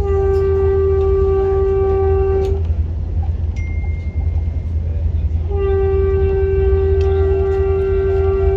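Train horn sounding two long, steady blasts, the second starting about five and a half seconds in, over the low rumble of the train running.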